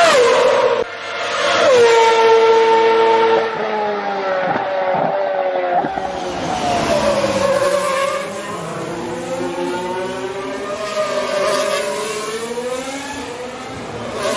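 Formula 1 race car engines at high revs, pitch falling sharply through downshifts near the start. About six seconds in, a cut brings a different, lower engine note that rises and falls through the gears.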